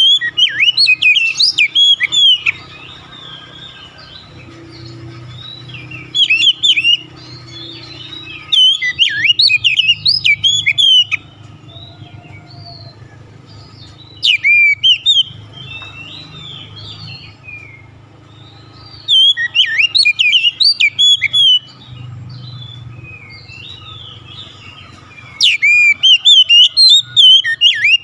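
An oriental magpie-robin (kacer) singing in about six bursts of quick, varied whistled phrases, each lasting one to three seconds with pauses between, over a faint steady low hum.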